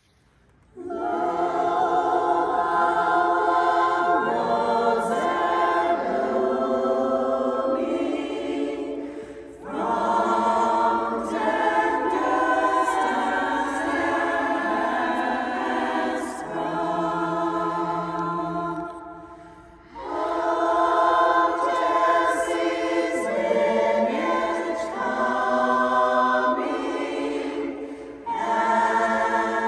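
Barbershop chorus singing a slow carol a cappella in held harmony, in long phrases with short breaks between them about every ten seconds.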